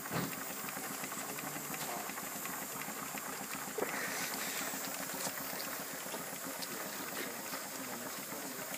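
4-inch scale steam traction engine standing in steam, giving off a steady hiss of steam, with a few faint clicks.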